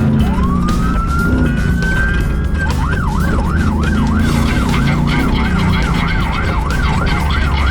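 A siren winds up in one long rising wail, then switches to a fast yelp, rising and falling about two and a half times a second, over background music.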